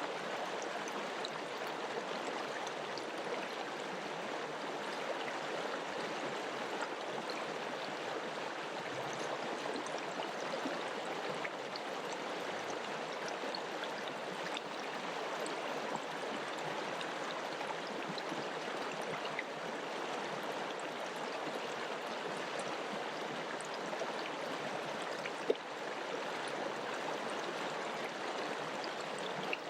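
River water flowing, a steady even rush with scattered small splashes and one sharp click about 25 seconds in.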